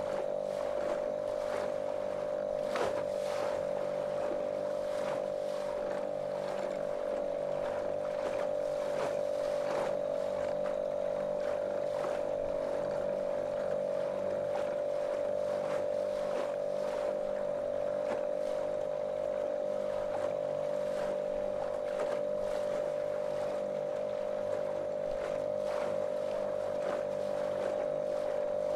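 Small motorboat's motor running at a constant, monotonous drone while underway, with short irregular slaps of water against the hull.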